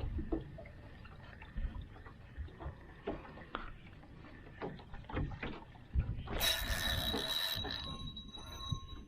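Fishing from a small boat: scattered knocks and taps, and about six seconds in a fishing reel casting, a hiss of line paying out for about a second with a thin whine that fades after it.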